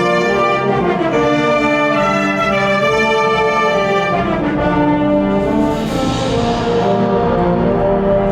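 School wind band playing sustained, slowly shifting chords, led by brass. A bright hiss-like shimmer swells and fades about six seconds in.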